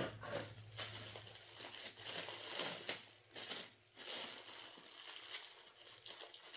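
Packaging rustling and crinkling in irregular bursts as a new replacement snowblower electric starter is handled and unpacked.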